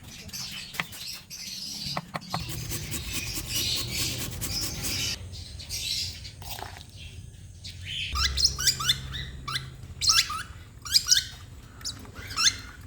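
Lovebirds chirping and chattering, with a busy run of quick, sharp chirps in the last few seconds.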